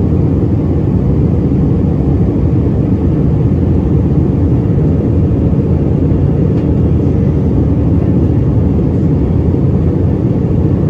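Steady cabin noise of an Airbus A319 in flight: a constant low roar of engines and airflow, with a faint steady hum.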